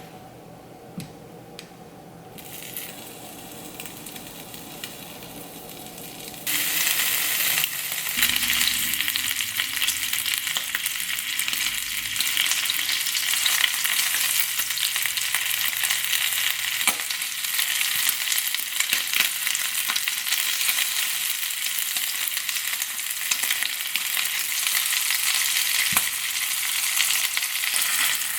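Food frying in a pan. After a few light clicks, a loud steady sizzle starts suddenly about six seconds in and keeps going.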